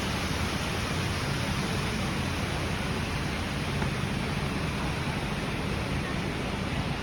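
Steady rushing and splashing of a large public fountain's water, an even hiss-like wash with no breaks.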